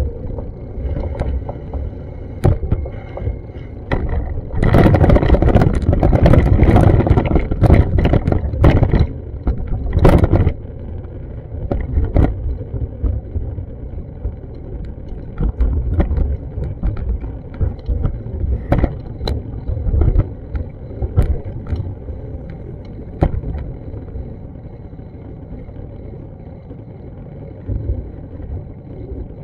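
Street noise with a steady low traffic rumble. It swells into a louder, rougher stretch about five seconds in, with a short loud burst a little later and scattered light clicks throughout.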